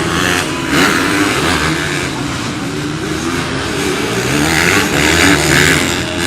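Racing motorcycle engines running hard, their pitch rising and falling as the bikes accelerate and back off.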